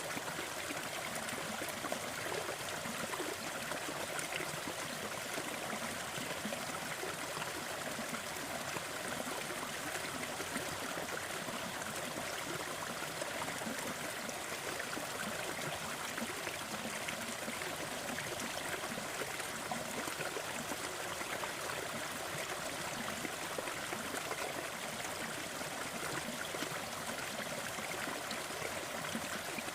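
Steady rushing noise bed with faint, scattered crackles of a fireplace fire, unchanging throughout.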